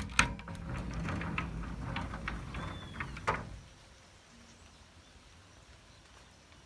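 A door being opened, rumbling with scattered clicks and a short squeak, and ending in a knock about three seconds in. After that only a faint steady background remains.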